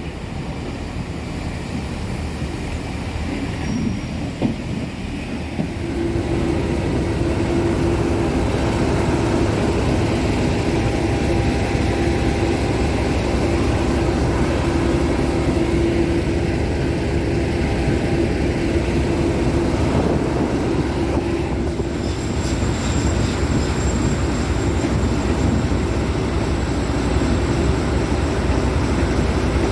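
Class 50 diesel locomotives running with their English Electric 16-cylinder engines, a steady droning note that steps up and grows louder about six seconds in.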